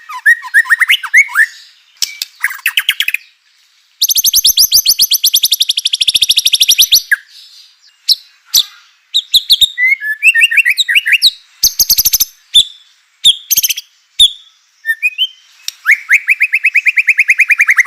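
White-rumped shama (murai batu) singing a varied song of short whistled, slurred phrases broken by very fast rattling trills. One long high rattle comes about four seconds in, and a lower fast trill comes near the end.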